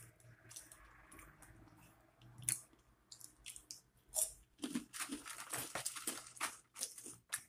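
A person chewing and crunching food close to the microphone, with a run of crisp crackling bites partway through.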